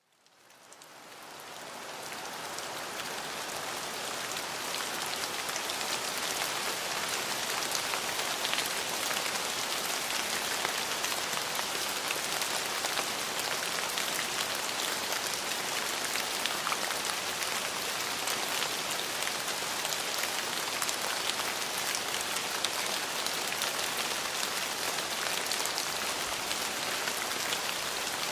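Steady rain falling, a dense patter of drops that fades in over the first few seconds and then holds even.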